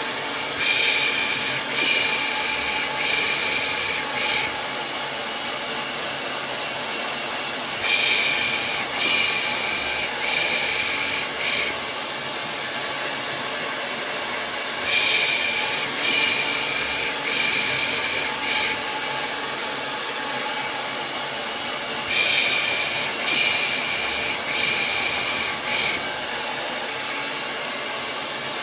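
Hair dryer running steadily, with a soothing 'pış pış' shushing (pssh, pssh) over it. The shushes come in sets of four, about one a second, and the sets repeat about every seven seconds, as a looped white noise for lulling a baby to sleep.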